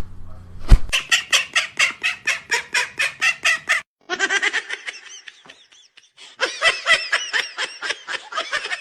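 Birds calling: a fast run of sharp, evenly repeated calls for the first few seconds, then chirping calls after a short break.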